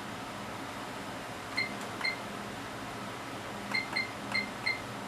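Front-panel keys of an HP 3245A universal source being pressed, each press giving a faint click and a short, high beep. Two presses come about a second and a half in, then four in quick succession near the end, over a steady background hum.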